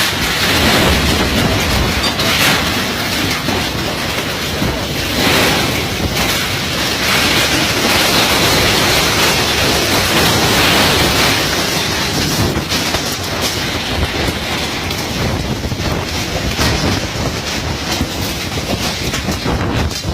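Strong storm wind rushing and buffeting the microphone in a loud continuous roar that swells in gusts, strongest about a second in, around five seconds in and from about eight to eleven seconds in.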